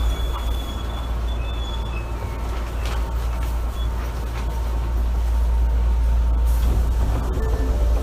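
Running sound inside an Osaka Municipal Subway 66 series car: a steady low rumble of wheels and running gear, with a thin high whine that fades out in the first couple of seconds and a few short clicks later on.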